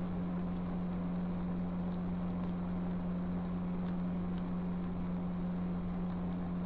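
Steady vehicle noise as heard inside a moving car, with a constant low hum running underneath.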